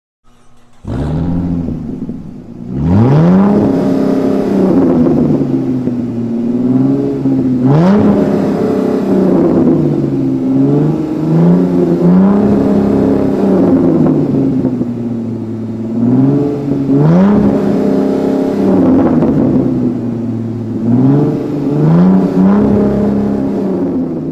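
Dodge Challenger Hellcat's supercharged Hemi V8 revved several times, its pitch climbing and falling back to a steady idle between blips.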